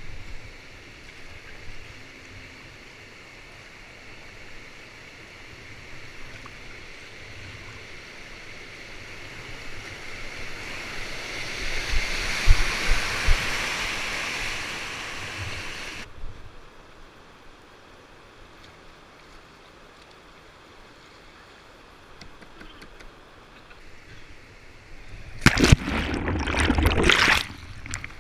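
Rushing water at a river weir, swelling to a loud rush about halfway through and then cutting off abruptly. Near the end come about two seconds of loud splashing with heavy buffeting.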